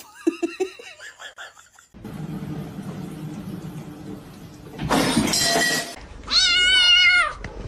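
A cat meowing: a short wavering call at the start and one long, loud wavering yowl near the end, with a burst of noise just before it.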